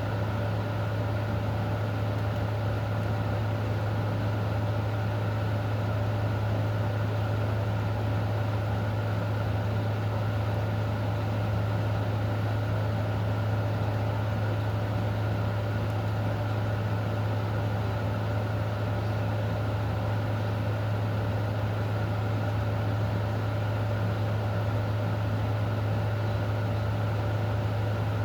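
Steady low mechanical hum with a faint constant tone above it, under an even wash of rain noise.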